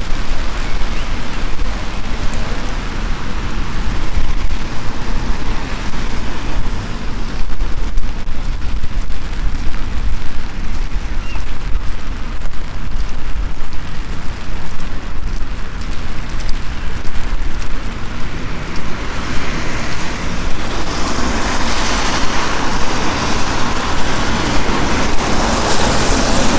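Steady rain with fine ticks of drops over a constant low rumble, joined about twenty seconds in by a louder rushing sound.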